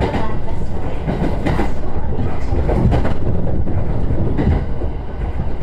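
Interior of a JR East E129 series electric train running along the line: a steady low rumble of the car with the wheels clacking over rail joints every second or so.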